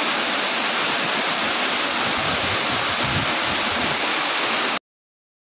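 Waterfall rushing steadily, an even hiss of falling water that cuts off suddenly near the end.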